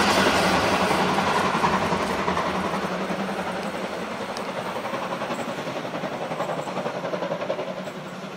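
A train rolling past and moving away, its wheels clattering over the rail joints in a steady rhythm as the sound fades.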